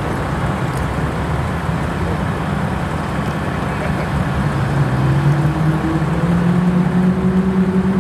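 Lamborghini V12 engines at low revs as the cars creep forward. About halfway through, a steady engine note comes in, rises slightly in pitch and holds.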